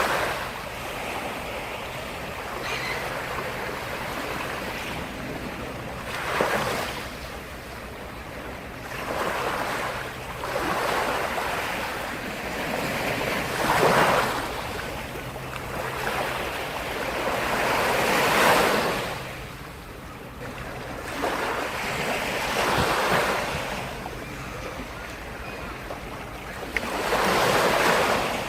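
Black Sea waves breaking on the shore, a rushing surge every four to five seconds with the wash of surf between them.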